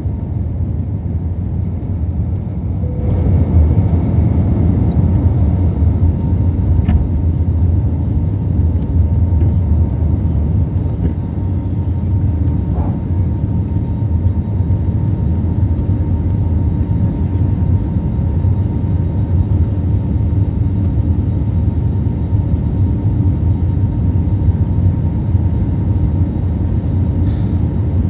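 Steady engine and air rush of an Airbus A320neo heard inside the passenger cabin: a deep, even rumble with a faint steady whine above it, stepping up in loudness about three seconds in.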